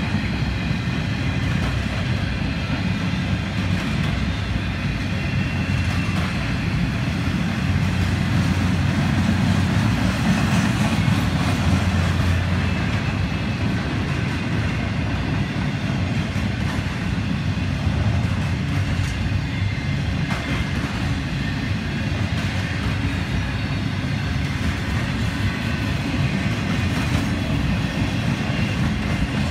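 Empty double-stack intermodal well cars of a freight train rolling past steadily, steel wheels running on the rails, a little louder about ten seconds in.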